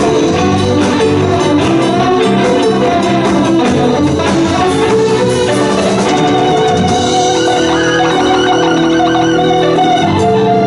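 A live band playing an instrumental passage with no singing, keyboard among the instruments; drums beat steadily through the first half, then the band settles into held chords.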